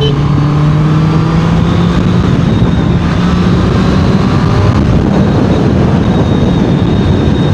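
Honda CBR650R inline-four engine and exhaust under load at speed, its note rising steadily over the first few seconds, then holding amid heavy wind rush.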